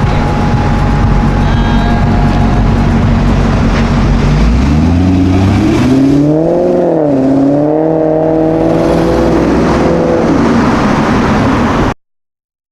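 A car engine running steadily low, then revving up about halfway through: the pitch rises, dips briefly and holds higher as the car pulls away. The sound cuts off suddenly near the end.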